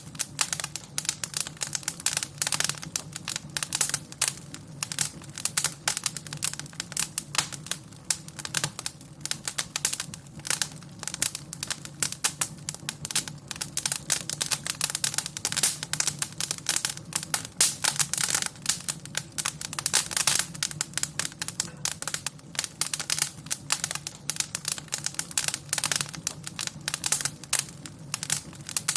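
Wood fire crackling in a fireplace: a dense, irregular run of pops and snaps over a steady low hum.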